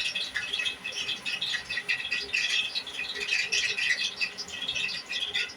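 Hot olive oil sizzling in a frying pan, ready for frying chicken, with a dense, irregular crackle throughout.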